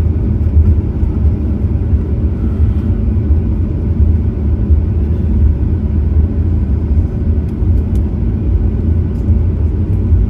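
Cabin noise inside a Boeing 737-900ER with its CFM56-7B turbofan engines running on the ground: a steady, loud low rumble with no rise or fall.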